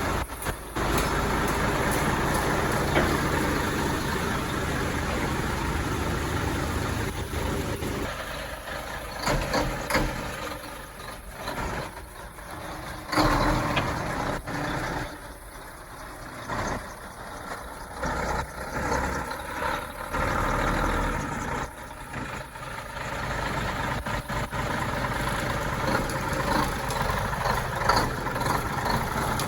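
Mack Cruiseliner cab-over truck's diesel engine running while the truck is moved, the engine sound rising and falling in level.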